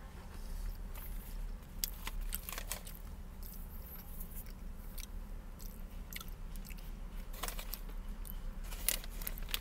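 Someone chewing crunchy fried garlic peanuts, with sharp crunches now and then.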